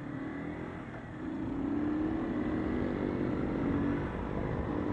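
Motorcycle engine, the Keeway Cafe Racer 152's single-cylinder, running on the road as heard from a helmet-mounted mic; about a second in it picks up revs and grows louder, then holds steady.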